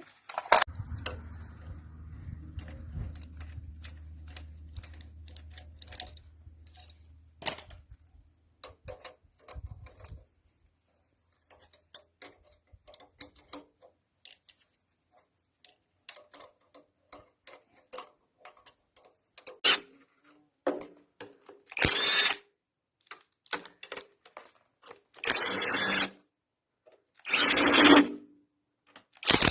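Clicking and tapping of metal tools on a Lister SR3 diesel engine being taken apart, over a low hum in the first few seconds. Later come several short bursts of a power tool, each about a second long.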